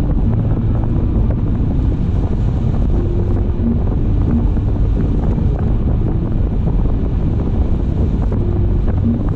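Steady low rumble of wind and road noise from a moving car, with a few faint short tones over it.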